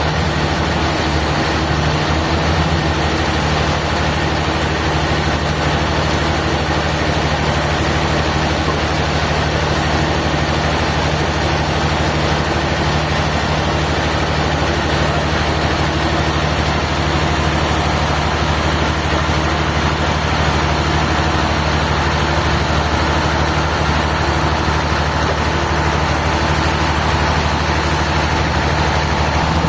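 A heavy engine running steadily at an even speed, a constant low hum with no change in pitch or load.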